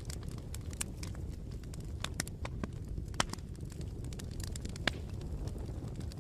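Campfire burning with a steady low rumble and irregular sharp crackles and pops from the burning wood, two of them louder, about three and five seconds in.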